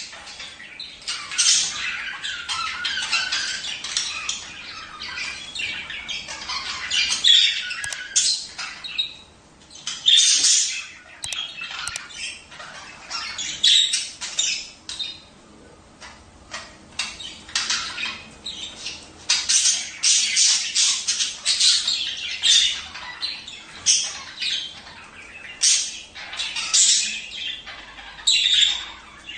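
Budgerigars chattering continuously, with many short sharp squawks and chirps over a busy high-pitched warble.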